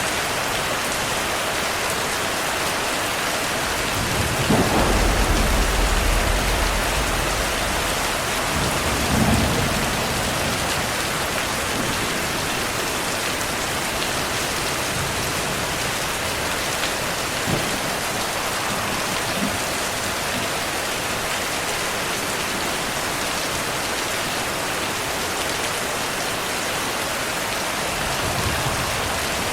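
Heavy rain falling steadily in a thunderstorm, with low rolls of thunder rumbling about four seconds in, again briefly near ten seconds, and faintly near the end.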